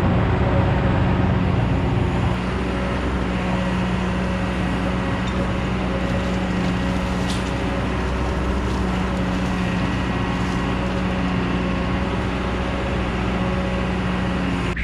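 Heavy diesel engine of construction machinery running steadily under load, easing slightly about two seconds in.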